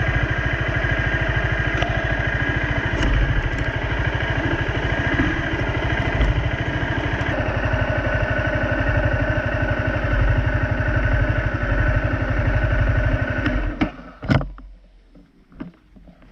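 A Honda CRF250 dirt bike's single-cylinder four-stroke engine runs steadily at low revs. It is shut off about 14 seconds in, followed by a couple of sharp clunks.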